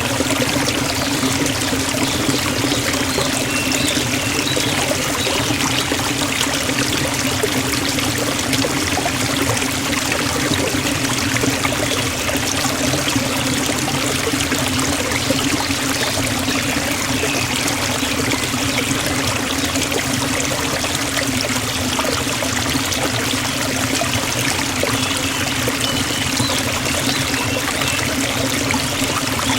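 Forest waterfall: water falling and rushing in a steady, even flow.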